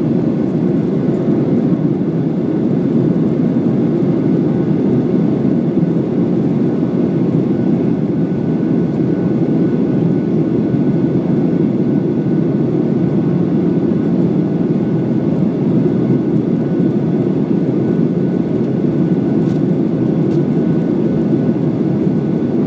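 Steady cabin noise of a Ryanair Boeing 737 in flight: the even, low rush of its jet engines and airflow, with a faint steady whine above it.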